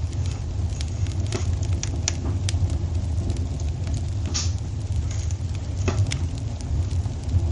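Wood fire in a fireplace crackling, with irregular sharp pops over a steady low rumble. A louder pop comes about four and a half seconds in.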